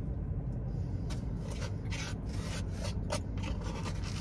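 Close-miked chewing: irregular small wet clicks and smacks of a mouth eating, over a steady low hum.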